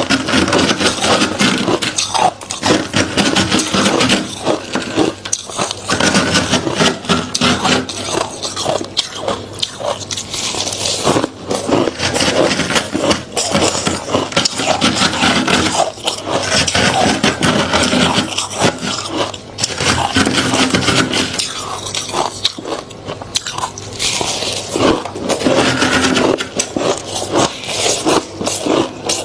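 Close-up crunching of deep freezer frost being bitten and chewed: dense, continuous crackling crunches.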